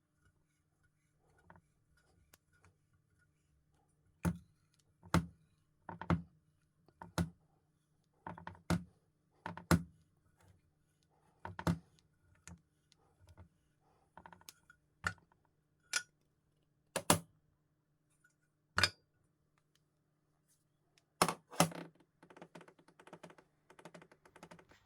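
Irregular sharp clicks and knocks of small metal parts and hand tools being handled and set down, with a quick rattle of many small clicks near the end, over a faint steady low hum.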